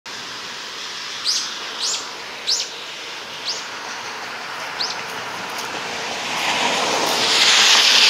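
A small bird calling five times, each call a short high chirp that sweeps downward, over a steady outdoor rushing noise that grows louder over the last two seconds.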